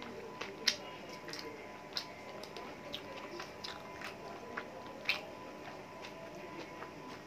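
Close-up mouth sounds of eating rice and chicken curry by hand: chewing with wet clicks and lip smacks scattered throughout, the sharpest about half a second in and again about five seconds in.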